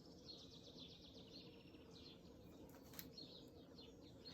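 Faint birdsong, quick repeated high chirps and trills, over near-silent room tone, with one small click about three seconds in.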